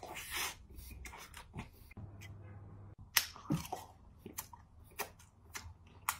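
A person chewing a mouthful of food with lip smacks: a string of irregular short clicks, the sharpest about three seconds in.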